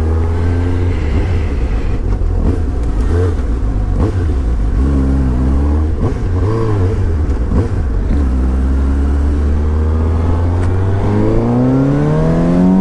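Suzuki GSX-S750's inline four-cylinder engine running under way, its pitch dipping and swinging with throttle changes in the middle. It then revs up in one long rising pull over the last few seconds as the bike accelerates hard.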